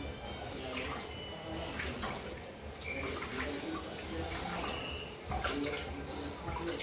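Tap water running into a sink during dishwashing, with a few short clinks scattered through.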